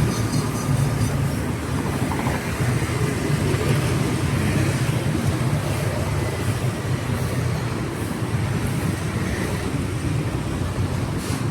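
Steady city street traffic: a continuous low rumble of passing vehicle engines.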